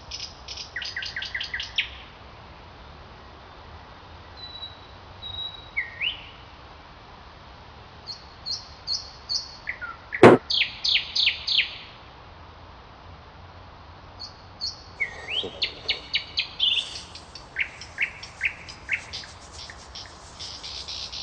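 Small birds chirping in repeated rapid runs of short, high notes, with quieter gaps between the runs. There is a single sharp click about halfway through.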